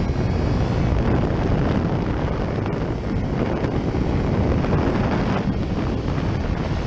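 Steady wind rushing over the microphone of a motorcycle at speed, with engine and road noise underneath.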